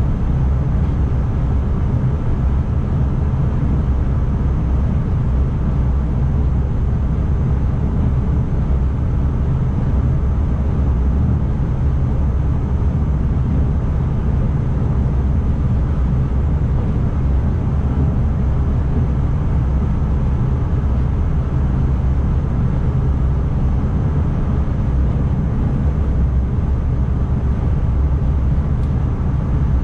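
Steady low rumble of an NS ICMm electric intercity train set running along the track, heard from inside the driver's cab, with a faint steady high whine above it.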